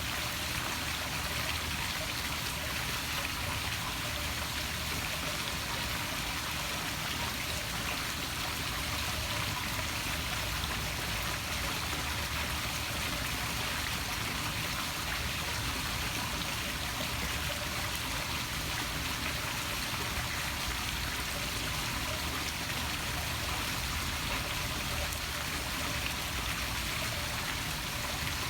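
Poolside waterfall splashing steadily into a swimming pool.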